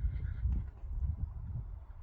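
Wind gusting over the microphone, a low irregular rumble that eases off toward the end.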